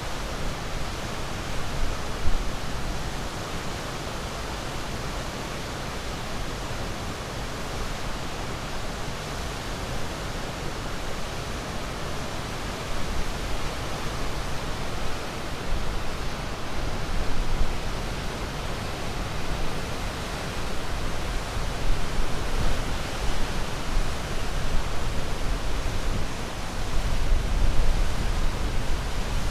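Ocean waves washing onto a shore in a continuous hiss and low rumble, swelling and easing every few seconds.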